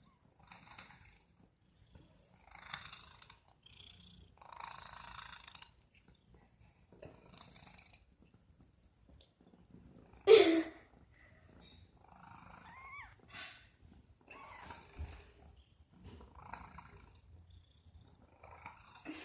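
Domestic cat purring, coming in separate bursts with a pause between each one. About ten seconds in there is one much louder short sound.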